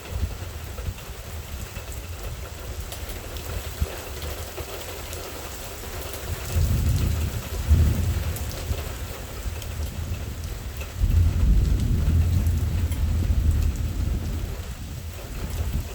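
Steady rain falling through a thunderstorm, with two rolls of thunder: a short one about six and a half seconds in and a longer one starting about eleven seconds in.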